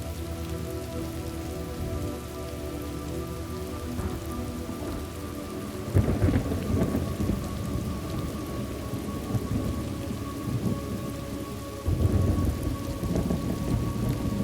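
Thunderstorm ambience: steady rain with two rolls of thunder, one breaking suddenly about six seconds in and another about twelve seconds in, each rumbling on for a few seconds.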